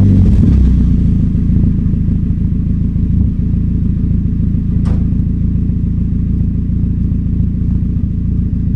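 Mazda NA Miata's four-cylinder engine idling through an aftermarket Manzo eBay exhaust just after starting: a loud, steady low rumble, a little stronger in the first second before it settles. A single short click about five seconds in.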